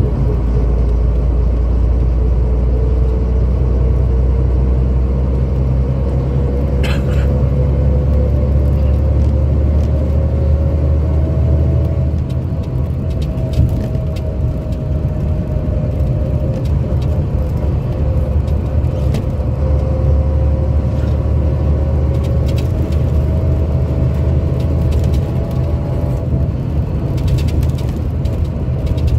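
Scania K82SR coach's diesel engine running under way, a steady low rumble with a whine that climbs slowly in pitch and drops off twice, about twelve seconds in and again near the end.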